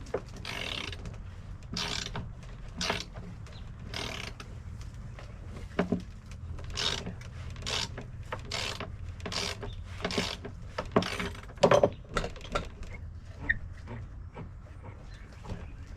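A hand tool worked in a run of short strokes, roughly one a second, over a steady low hum.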